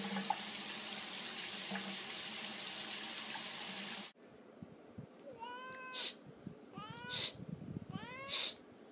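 A steady rush of noise like running water, which cuts off suddenly about four seconds in. Then a domestic cat meows three times, each call gliding up and falling away, with a short sharp hissy burst after each.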